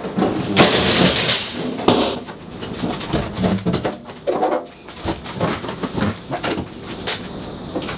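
An LG drum washing machine being dismantled: irregular clicks, knocks and scraping of panels, fasteners and tools.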